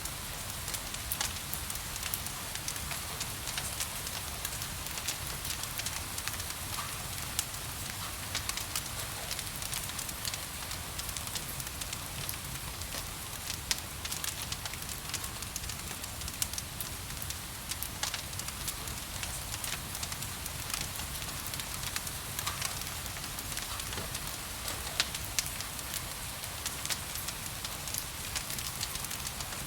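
Wood fire crackling in a fireplace, with many small sharp pops and an occasional louder one, over a steady hiss of rain and a low rumble.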